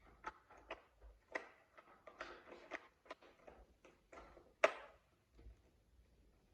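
Plastic toy set parts being handled and fitted together: a run of light clicks, taps and rattles, with one sharper snap about two-thirds of the way through.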